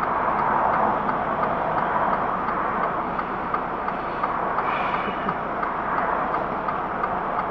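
Steady road and engine noise of a vehicle driving, heard from a dashcam, with a faint regular ticking and a brief higher tone about five seconds in.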